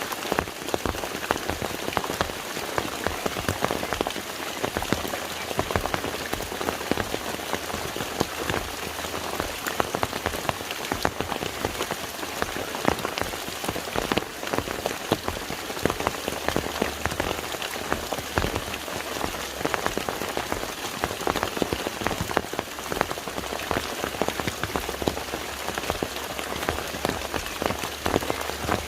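Steady rain falling, a dense patter of many small drops striking water and surfaces.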